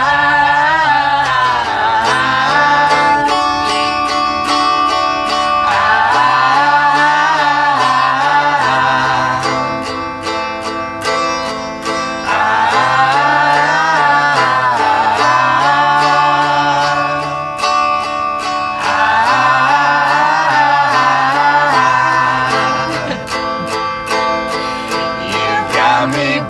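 Live acoustic band music: plucked guitar over a bass line that repeats its phrase about every six seconds, with a wavering melody line above.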